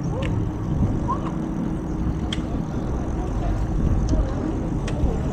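Steady low rumble of wind and road noise from riding a bicycle along a street, with a few sharp clicks spread through it.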